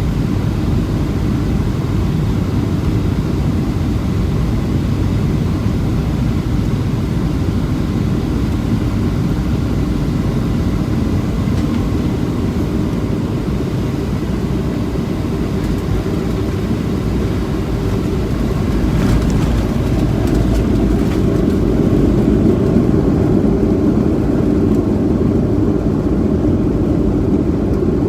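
Steady rumble of a Boeing 737-700 heard from inside the cabin, engine and airflow noise, growing somewhat louder and deeper about two-thirds of the way through.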